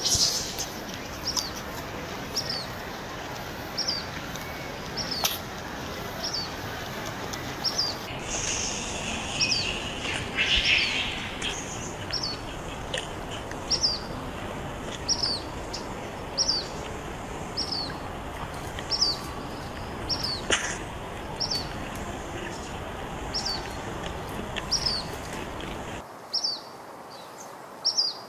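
A bird repeating a short, high, falling chirp about once a second over a steady background hiss. About ten seconds in comes a brief, louder, higher squeal.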